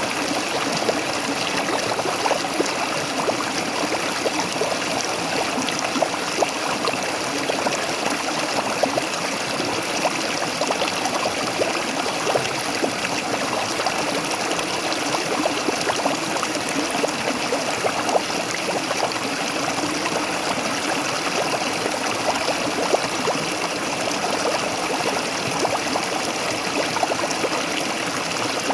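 Waterfall running, a steady rush of water with many small splashes and trickles throughout.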